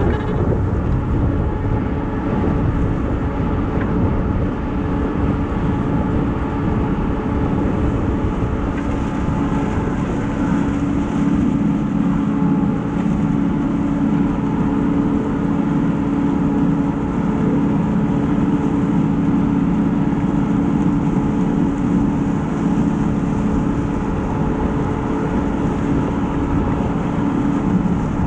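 Engine of corn-harvesting farm machinery running steadily at working speed, with a constant engine hum over heavy mechanical noise.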